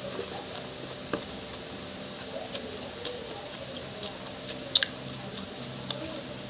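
A person eating a meal of fern salad, pork cracklings and rice: a few sharp clicks and taps over quiet eating sounds, the loudest a quick double click about three-quarters of the way through.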